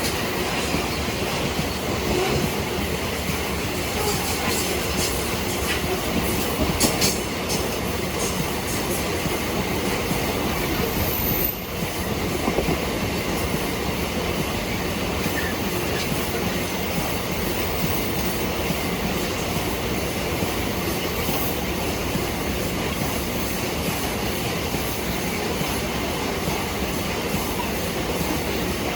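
Loaded iron-ore train's wagons rolling past: a steady rumble of steel wheels on rail. Sharp clicks and knocks come through the first several seconds, the loudest about seven seconds in.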